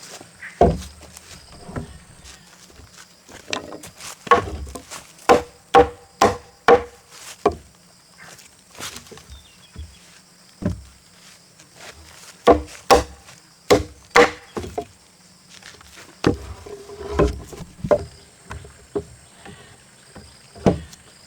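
A tool chopping into a wooden timber post: sharp wooden strikes in runs of about two a second, with short pauses between the runs.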